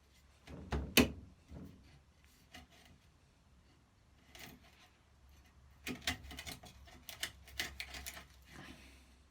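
Wood chisel cutting away waste wood between saw cuts: two sharp knocks about a second in, then scattered clicks and scrapes, with a quicker run of knocks and scrapes in the second half.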